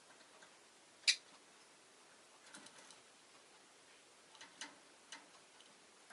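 A pet rosy-faced lovebird making a few short, sharp ticks and chirps, the loudest about a second in and a quick cluster around two and a half seconds, over faint background hiss.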